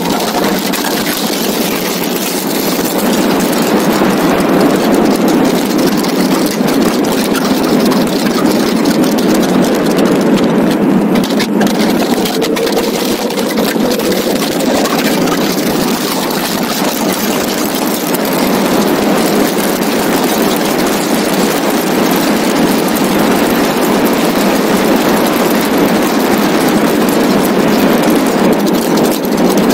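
Donkervoort D8 GTO RS's turbocharged five-cylinder engine running hard at track speed, heard from the open cockpit under a steady rush of wind and road noise. A brief rise in engine pitch comes about halfway through.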